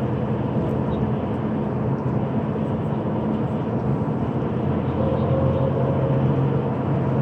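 Airport coach bus running at a steady pace, heard from inside the cabin: an even engine hum under a steady haze of road and wind noise.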